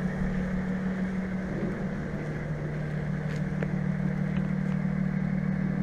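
Lotus Exige S V6 Roadster's supercharged 3.5-litre V6 idling steadily.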